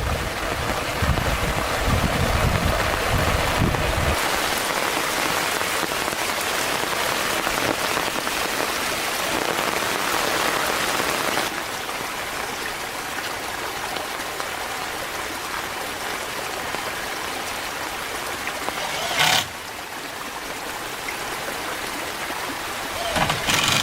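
A steady, even hiss like rain, with a low rumble in the first few seconds. It drops a little in level about halfway through, and a short louder noise comes about three-quarters of the way in.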